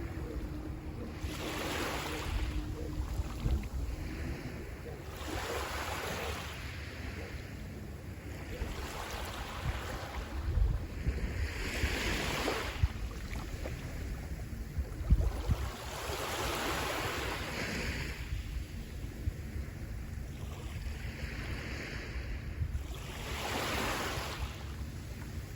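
Sea waves breaking and washing on the shore, a fresh wash of surf every few seconds, with wind buffeting the microphone.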